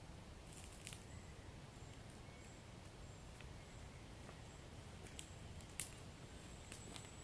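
Wood fire in a fireplace crackling faintly: about half a dozen sharp pops scattered over a low steady rumble, the loudest one near the end, with faint brief high hissing between them.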